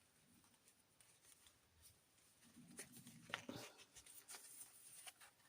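Near silence, with faint paper handling as the pages of a handmade journal are turned and handled: a few soft rustles and a sharp tick about three seconds in.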